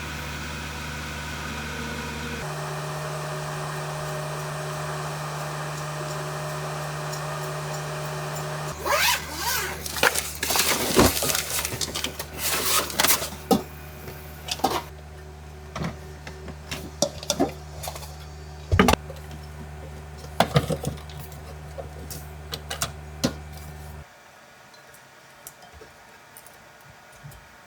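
A vehicle engine idling with a steady low hum, overlaid for a stretch by a run of sharp knocks and clatter. The hum cuts off suddenly, leaving a quiet background with a few faint ticks.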